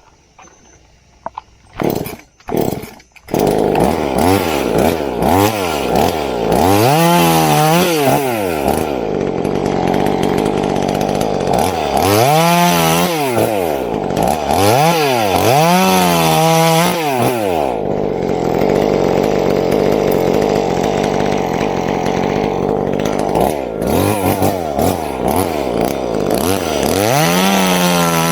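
Two-stroke chainsaw starting up after a couple of short pulls about two seconds in, then running loud, revved up and down several times, with long steady stretches at full throttle cutting through coconut wood.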